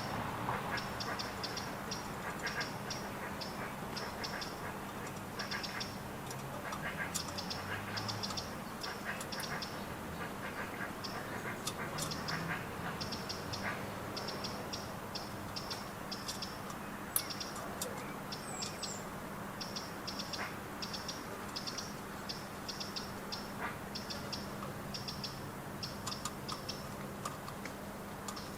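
A small bird calling over and over: short, high groups of quick chattering notes, a few groups a second, over a steady low background hum.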